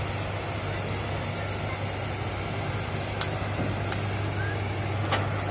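Hitachi excavator's diesel engine running steadily with a constant low hum. A couple of short sharp knocks come about three seconds in and near the end.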